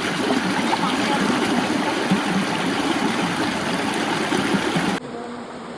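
Stream water flowing steadily, a constant rushing that cuts off suddenly about five seconds in to a much quieter background.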